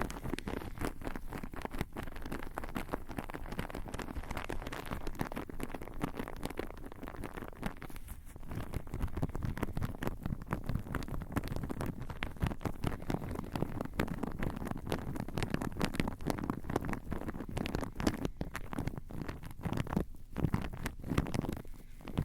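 Rapid close-up tapping and scratching on a Tascam handheld recorder's microphones, making a dense, unbroken crackle of taps that eases briefly about eight seconds in.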